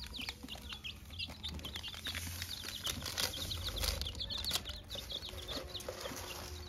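Several small birds chirping busily in short, high, quick chirps, with scattered clicks and wing flaps.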